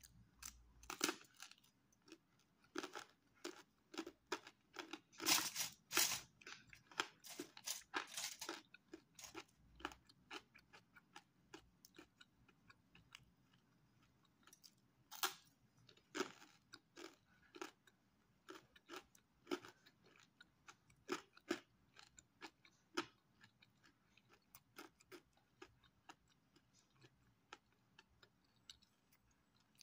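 Close chewing and crunching of crisp pizza crust, each bite and chew a short sharp crackle. The crunches come thick and fast for the first ten seconds or so, then grow sparser as the chewing goes on.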